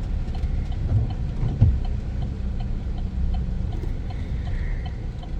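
Pickup truck's engine and road rumble heard from inside the cab, steady and low, with a faint regular ticking about three times a second.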